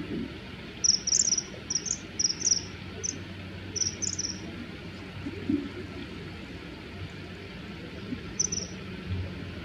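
Common kingfisher calling: clusters of short, high calls in quick succession, then a pause and one more call near the end. These are threat calls between rival males in a territorial fight.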